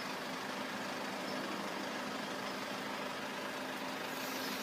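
Steady outdoor background noise with a faint low hum of an idling vehicle engine.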